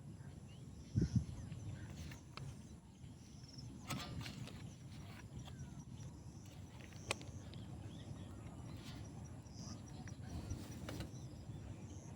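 Rural outdoor ambience with a steady low rumble, two brief dull thumps about a second in, and a few sharp clicks later on, with faint high chirping in the background.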